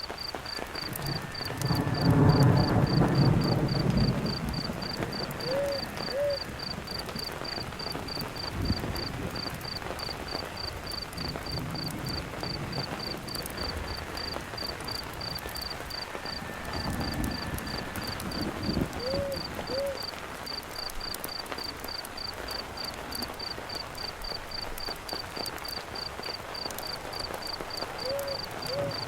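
Steady rain with the faint crackle of a campfire, and a cricket chirping evenly a little over twice a second. Low rumbles of distant thunder come about two seconds in, again past the middle, and near the end.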